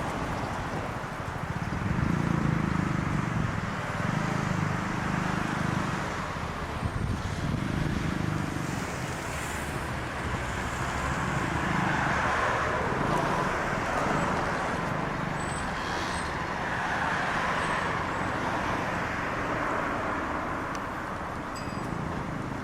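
Steady urban road traffic: cars passing, their rumble swelling and fading as each goes by.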